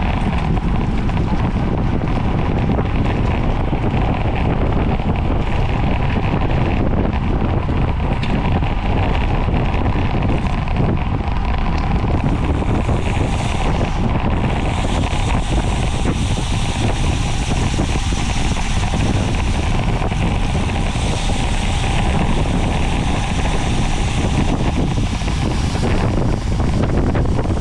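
Heavy wind buffeting on the microphone of a bicycle-mounted camera while riding at race speed, a steady low rushing, with a brighter hiss joining about halfway through.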